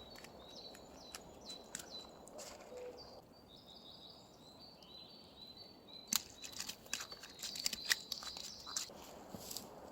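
Small birds chirping and twittering, with a run of sharp clicks and snaps between about six and nine seconds in.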